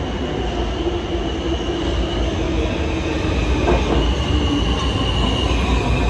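R160 subway train rolling into the station, its wheels squealing in steady high tones over a deep rumble that grows slowly louder, with one short knock a little past halfway.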